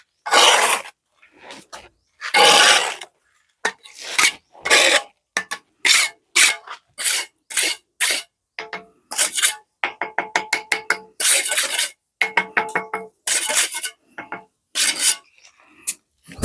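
Quick series of short scraping strokes with metallic clinks, some ringing briefly, typical of a steel trowel or scraper working wet cement against a metal pan or tool.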